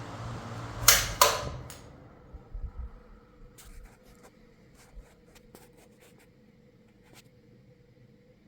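Electric fan running, then two sharp switch clicks about a second in, after which its noise fades away as it winds down, with scattered light ticks and a faint steady hum left.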